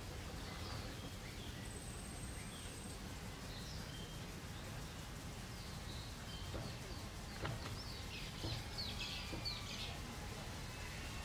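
Birds chirping and calling in short scattered notes, busiest near the end, over a steady low background rumble.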